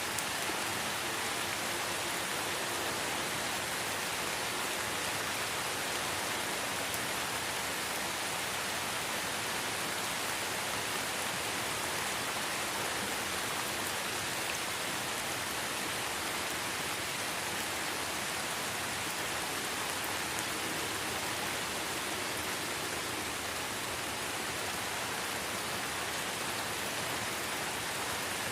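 Steady light rain falling in a forest, an even hiss of many drops with no change throughout.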